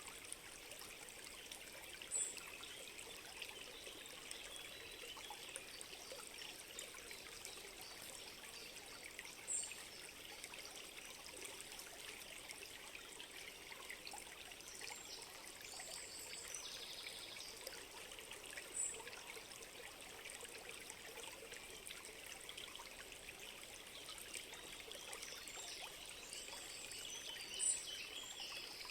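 Gently trickling stream, a steady soft babble of water, with a bird's short high chirp heard four times, several seconds apart.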